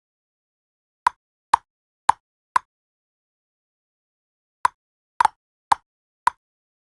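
A short pop sound effect played eight times, in two runs of four about half a second apart, with a pause of about two seconds between the runs and total silence between pops.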